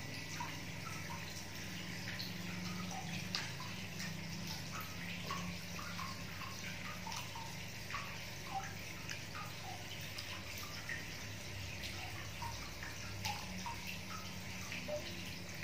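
A person chewing fried banana, with many faint short mouth sounds over a steady background hiss and low hum.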